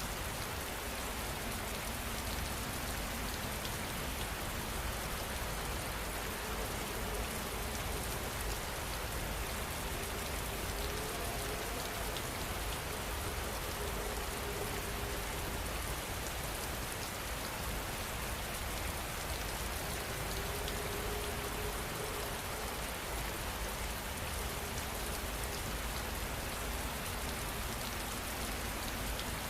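Steady rain falling, an even, unbroken hiss of many drops on surfaces.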